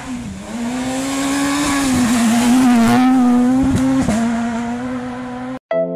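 Car engine held at high, steady revs over a broad rushing noise, growing louder, with a brief dip in pitch about four seconds in. It cuts off abruptly near the end.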